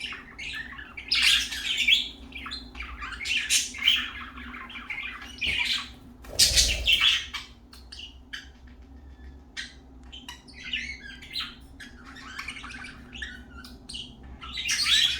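Budgerigars chirping and squawking in quick, irregular short calls, with a louder burst about six and a half seconds in.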